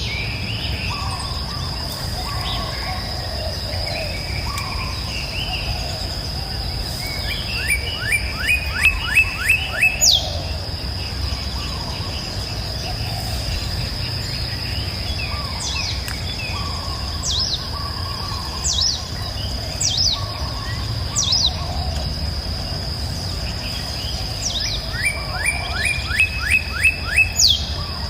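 Songbirds singing: twice a quick run of about seven descending notes, with single high downward-sliding notes scattered between, over a steady high insect-like trill and a low, even noise.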